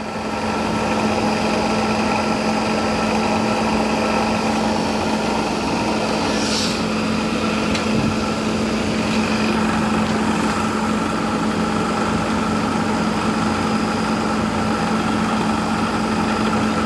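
LG 10,000 BTU window air conditioner running, its blower wheel pushing air over the condenser coils: a steady hum with a strong low tone over a rush of air. The fan motor's bearings had seized and were freed with oil, and it still doesn't sound very happy.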